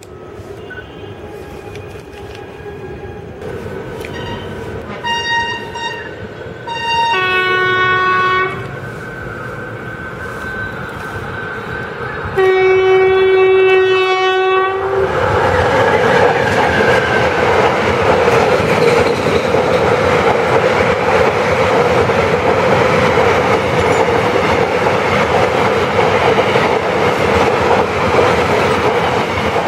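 Electric locomotive (Indian Railways WAP-4) sounding its horn as it approaches: a few short toots, a longer blast, then a long loud blast about twelve seconds in. After that the train passes close by, a loud steady rumble of the locomotive and coaches running over the rails with a clickety-clack.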